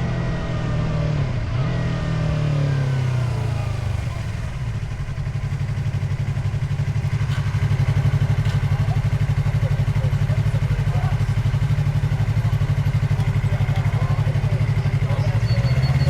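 Motorcycle engine winding down, its pitch falling over the first few seconds as the throttle closes. It then runs steadily at a lower speed and grows a little louder about halfway through.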